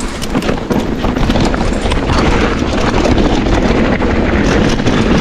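Mountain bike riding down a downhill trail: wind rushing over the on-board microphone with tyre noise and a constant clatter of the bike rattling over the rough ground. It gets louder about a second in as the bike picks up speed.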